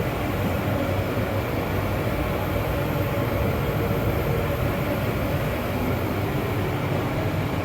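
Steady low hum with an even rush of moving air, typical of ventilation fans running.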